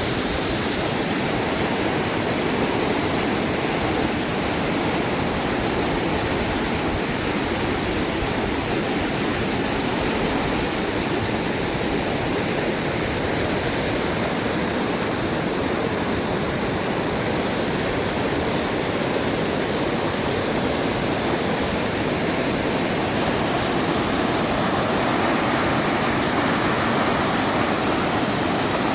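Swollen, fast-flowing river water rushing steadily.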